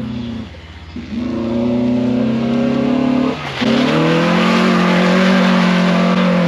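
Car engine revving hard and held at high revs in two pulls, with a short drop in revs just before a second in and again about three and a half seconds in.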